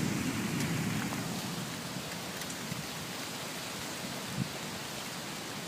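Steady rain falling: an even hiss with scattered drop ticks, and a brief low thump a little past four seconds in.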